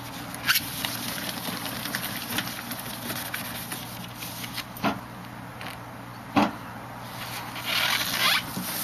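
Hand rubbing on a plastic headlight lens, with a few sharp clicks and a louder stretch of scrubbing near the end, over a steady low hum.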